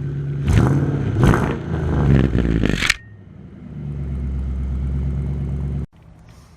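2007 Ford Mustang with a Magnaflow Magnapack cat-back exhaust, revved several times in quick succession for about three seconds. The sound then cuts off suddenly to a steadier, deep exhaust drone, which also stops abruptly about a second before the end.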